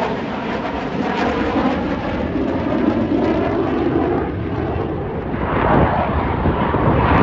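Jet noise from Blue Angels F/A-18 Super Hornets in flight: a loud, continuous rumble that swells louder near the end as a jet passes.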